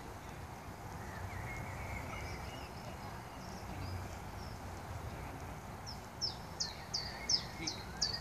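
A songbird singing over steady outdoor background noise. A few faint chirps come about a second in, then from about six seconds a run of short, high, down-slurred notes, about three a second.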